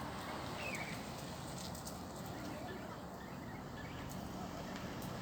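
A few faint, short bird chirps over a steady background rumble.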